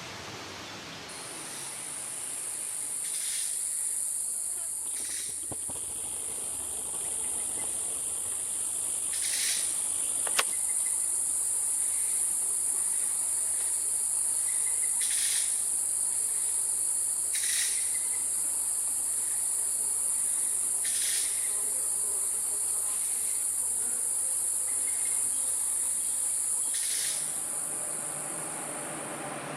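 An insect's steady, high-pitched trill. It starts about a second in and stops just before the end. Short, sharp chirps sound over it every few seconds.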